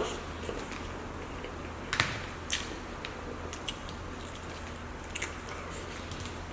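Close-miked chewing of pancakes: wet mouth smacks and sharp clicks every second or so, over a low steady hum.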